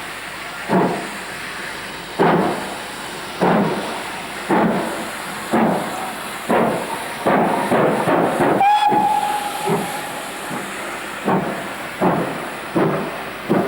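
Great Western Castle class steam locomotive Nunney Castle working a loaded train. Its heavy exhaust beats quicken from about one every second and a half to more than one a second. Just after the middle its whistle gives a single steady blast of a second or two.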